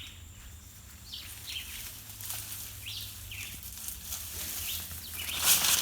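A bird chirping repeatedly in short, falling chirps, about one every second or so. A brief burst of rustling noise comes near the end.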